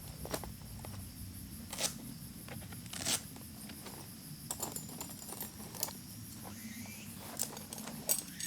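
Camp gear being handled: scattered short clicks, taps and light scrapes, about a dozen in all, over a steady high drone of insects.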